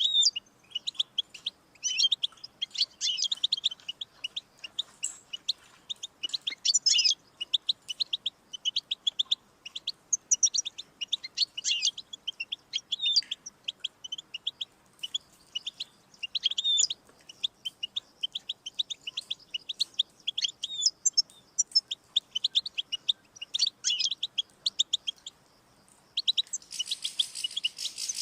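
European goldfinch singing: a fast, twittering song of rapid chirps and trills, broken by short pauses. Near the end the notes run together into a denser, hissier stretch.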